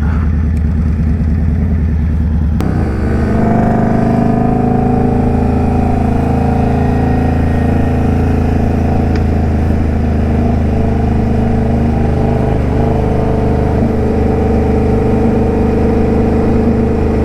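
Indian Scout Bobber V-twin motorcycle engine running steadily at low revs. About three seconds in it accelerates, its note rising and then settling into a steady cruise, with rushing wind noise added.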